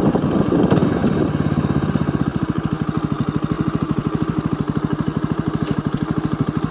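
Motorcycle engine idling, a rapid, even beat that settles in about a second in and holds steady.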